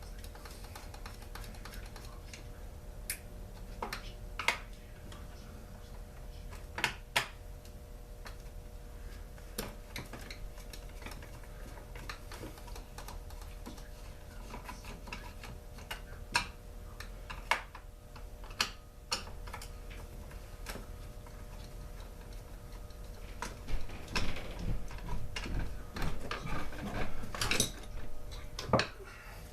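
Hand tools and loose parts clicking and knocking against a Poulan Pro chainsaw during teardown: scattered single clicks, then a denser run of quick clicks and rattling near the end.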